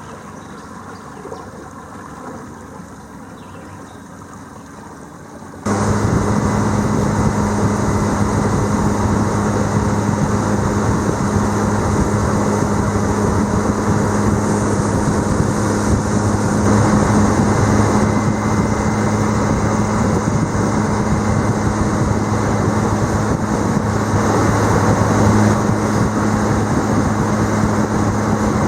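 A boat's outboard motor running steadily, with a low steady hum over a rushing noise. It is quieter for the first six seconds or so, then suddenly much louder.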